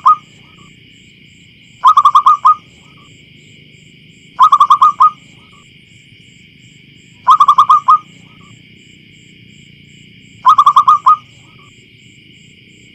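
Zebra dove (perkutut) calling: short phrases of quick staccato coos, each about half a second long with a trailing note, repeating every two to three seconds, four times in all. A steady high-pitched hiss runs underneath.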